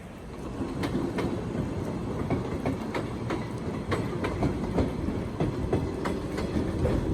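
A train rolling along jointed track, its wheels clicking over the rail joints every few tenths of a second over a steady rumble. It gets louder about half a second in as it comes closer.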